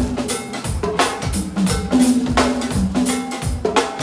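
Live go-go band groove: the drum kit holds a steady pocket beat of kick, snare and rimshots over a repeating bass line.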